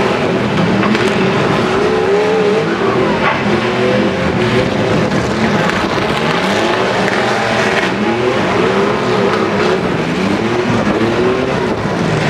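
Several demolition derby truck engines revving hard and unevenly at once, their pitches rising and falling, with a few metal impacts among them.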